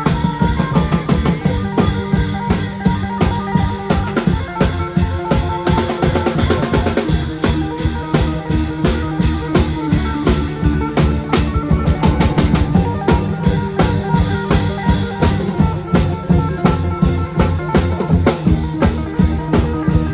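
Isan klong yao long-drum band playing: a fast, steady drum beat with bass drum and rim strikes under a pitched melody line, continuous and loud.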